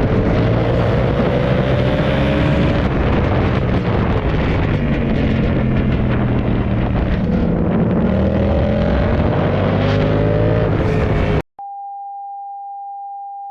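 Yamaha MT-07's parallel-twin engine running through an aftermarket exhaust, with wind rush; its pitch climbs twice as the revs rise. About eleven seconds in, it cuts off suddenly and a single steady electronic beep tone follows.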